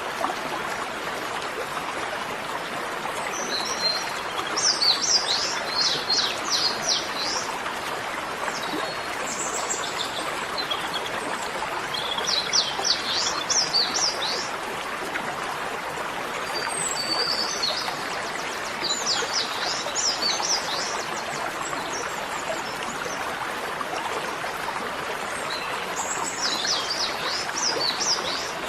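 A songbird singing short, quick trilled phrases, repeated every few seconds, over a steady rushing hiss.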